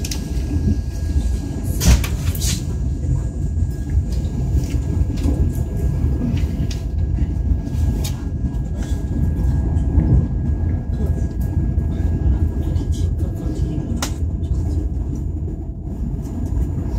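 Running noise inside the carriage of a China Railway electric multiple-unit (动车组) train under way: a steady low rumble with scattered sharp clicks and knocks.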